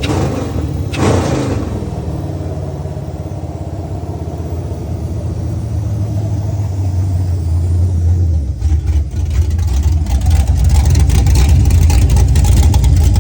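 LS V8 with a BTR aftermarket camshaft, swapped into an Infiniti G35 and running on its first start-up. The throttle is blipped briefly about a second in, then it settles to a steady idle. From about nine seconds in the running gets louder and choppier.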